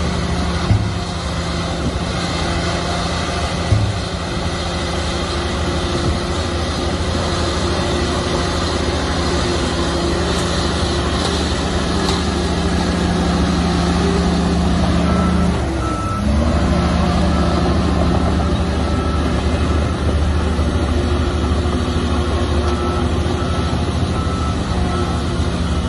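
Heavy diesel engine of earthmoving machinery running steadily under load, its pitch dropping briefly and then recovering a little past the middle. From about halfway a reversing alarm beeps steadily over it. Two short knocks come near the start.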